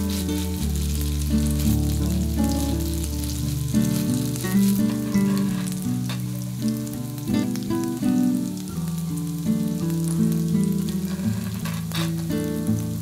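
Tofu and vegetable patties sizzling in hot oil in a frying pan, with a few sharp clicks as a spatula works the pan. Background music with a melody and bass plays throughout.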